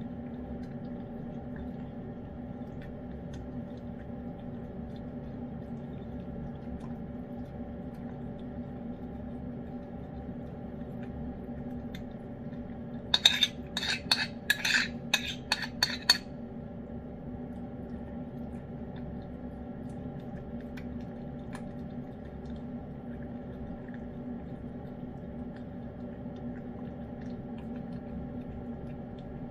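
Steady low hum, broken about halfway through by roughly three seconds of sharp clinks and clatters of dishware and utensils.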